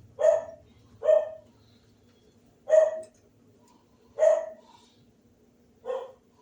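A dog barking five times in single barks, a second or more apart.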